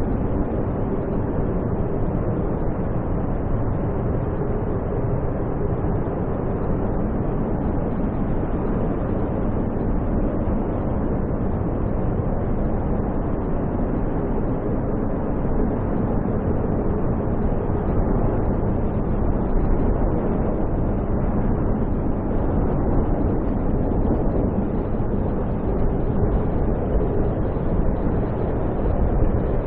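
Steady rushing rumble of snowstorm wind, heaviest in the low end, with no breaks.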